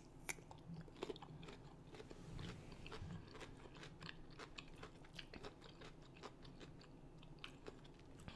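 Close-miked chewing of a bite of whole raw cucumber: quiet, irregular crisp crunches and small wet mouth clicks, a little stronger in the first second or so.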